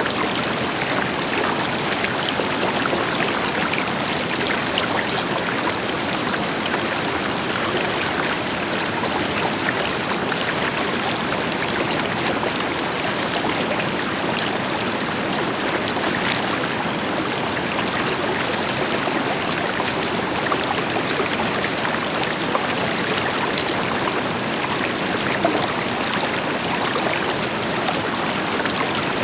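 River water flowing and splashing over rocks, with a waterfall rushing farther off. It makes a steady, even rush dotted with small splashes.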